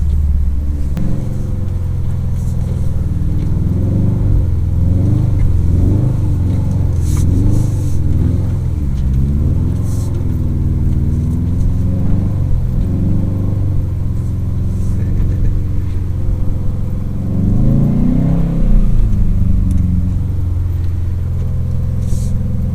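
Subaru WRX STI's turbocharged flat-four engine revving up and down over and over as the car is driven hard on snow. There is a sharp rise and fall in revs about two thirds of the way through.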